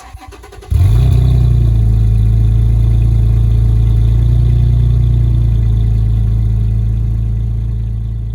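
A vehicle engine running steadily with a deep, even hum. It cuts in suddenly under a second in and then slowly fades.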